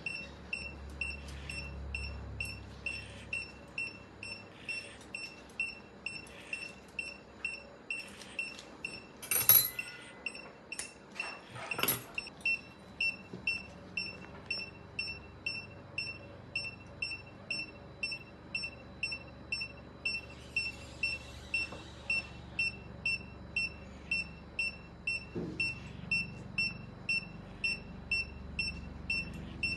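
Surgical patient monitor giving a short high beep about twice a second, steady and even throughout. Two sharp clatters, the loudest sounds, break in about a third of the way through.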